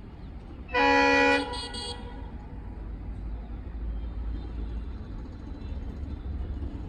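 A WDP4D diesel locomotive's horn gives one short, loud blast under a second in, followed by a fainter short note. A steady low rumble lies underneath.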